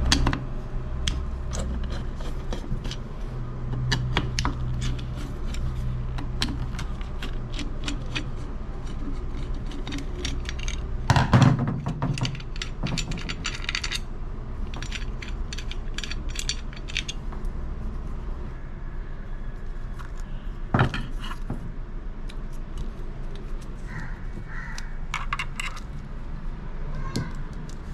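Screws being loosened from a ceiling fan motor's metal casing: scattered small metallic clicks and clinks, with a louder knock about eleven seconds in and another about twenty-one seconds in.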